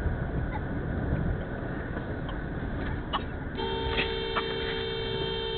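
Car road noise, then a car horn sounds in one steady blast of two close pitches, held for about two and a half seconds from a little past halfway in.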